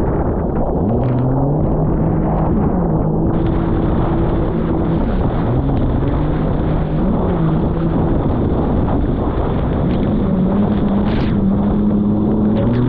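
Jet ski engine running under way, its pitch dropping and rising several times with the throttle, over a constant rush of wind and water.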